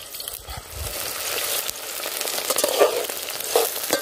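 Sliced onions and green chillies sizzling in hot oil in an aluminium pot, stirred with a metal spoon that scrapes the pot a few times near the end. The sizzle grows louder about a second in.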